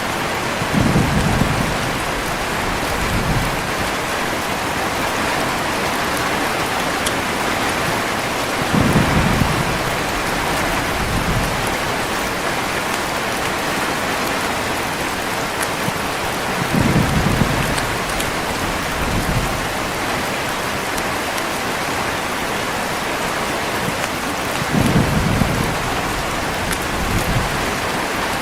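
Heavy rain falling steadily, with a low thunder rumble about every eight seconds, four in all.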